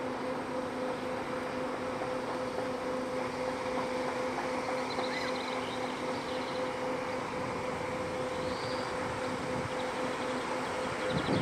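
Steady machinery hum aboard a river cruise motor ship, an even drone with a constant pitched tone running through it. A few faint high chirps come and go over it.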